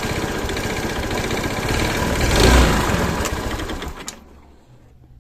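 Suzuki Access 125 single-cylinder four-stroke scooter engine running, revved up briefly about two and a half seconds in, then switched off and dying away about four seconds in.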